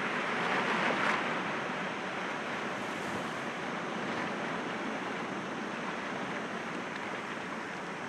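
Sea waves breaking gently against rocks: a steady wash of surf that swells about a second in and then eases off.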